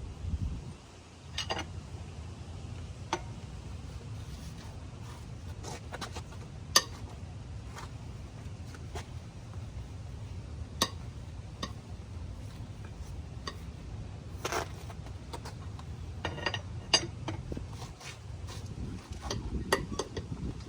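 Scattered metallic clinks and clicks from a lug wrench and socket working the front wheel's lug nuts as they are loosened, over a steady low rumble.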